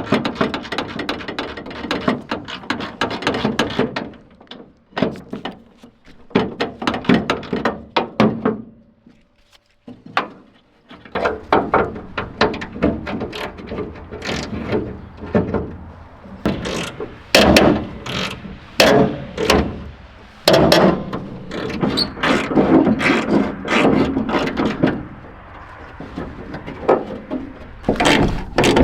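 Hand tools working on old truck parts: rapid ratcheting clicks and metal clatter that stop for about two seconds midway, then resume.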